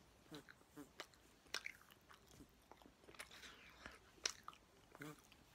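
A person chewing a mouthful of five Milkybar Mix-Ups chocolates with the mouth closed: faint wet smacks and clicks, scattered and irregular.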